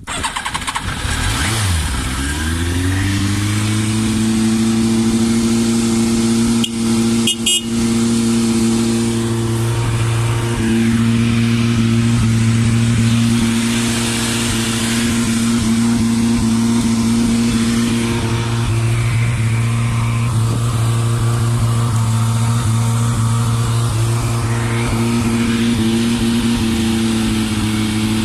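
Yamaha YZF1000R Thunderace's inline-four engine with a straight-through exhaust, freshly started: the revs climb for about two seconds, then it idles steadily. There is a brief click and dip about seven seconds in.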